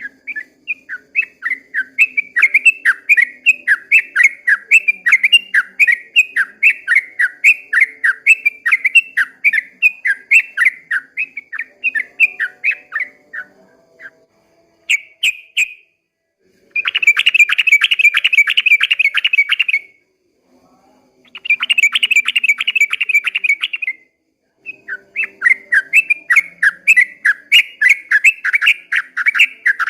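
Yellow-vented bulbul (trucukan) singing: a long run of quick chirping notes, about three a second. Around the middle come two dense, rapid rattling trills of about three seconds each, and then the chirping run starts again.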